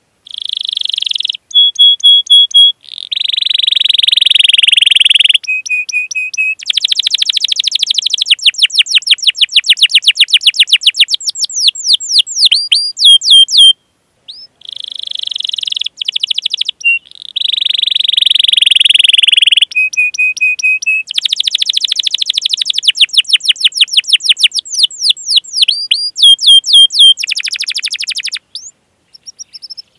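Domestic canary singing a long rolling song: fast runs of repeated sweeping notes, buzzy trills and short held tones, loud and high-pitched. It breaks off for about a second near the middle, then sings a very similar sequence again.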